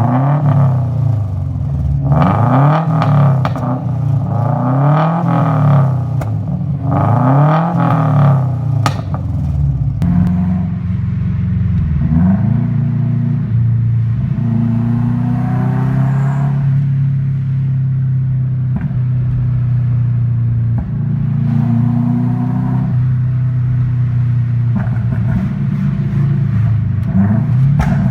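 2004 Subaru Impreza WRX STi's turbocharged 2.0 EJ207 flat-four through a catless downpipe and burble tune, revved up and down four times with a few sharp cracks near the last rev. After that it runs at steadier revs, with gentle rises and falls in pitch.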